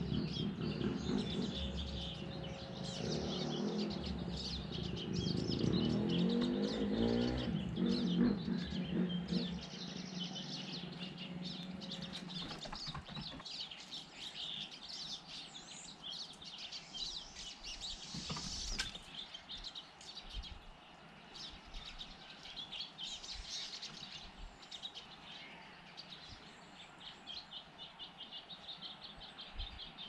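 Wild songbirds chirping and calling on and off throughout, over a low background rumble that fades out after about twelve seconds.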